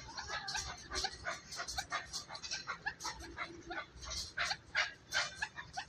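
A flurry of many short, high animal calls overlapping in quick, irregular succession.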